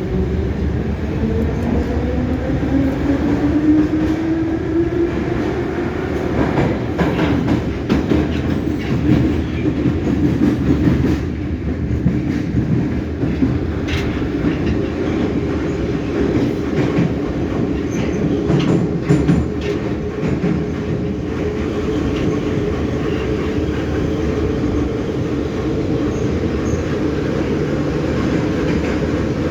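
EMA-502/EM-501 metro train pulling away: its traction motors give a whine that rises in pitch over the first few seconds, then the train runs on at speed through the tunnel with a steady rumble and occasional clicks from the wheels over the rail joints.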